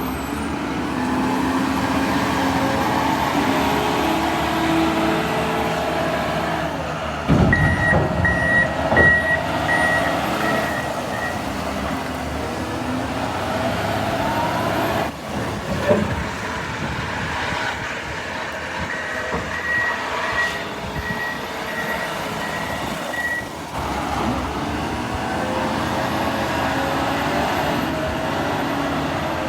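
Diesel engine of a John Deere 544L wheel loader running under load, with a reversing alarm beeping in two spells, about seven seconds in and again about twenty seconds in. A run of heavy thuds comes about seven seconds in, and another loud knock about sixteen seconds in.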